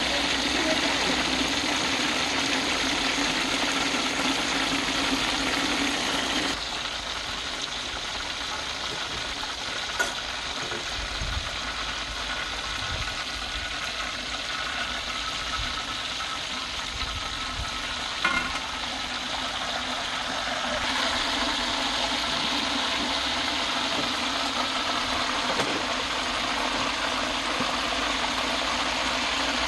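Chicken frying in hot oil in a wok and a pan over gas burners: a steady sizzle that drops in level about six seconds in and comes back up later. It is broken twice by a sharp click of metal cooking tongs or a spatula.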